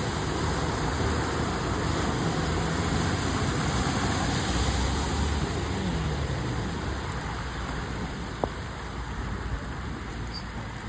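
A car driving through a flooded street, its engine hum and the rush of water and rain steady at first and easing off after about six seconds as it goes away. A single sharp click about eight seconds in.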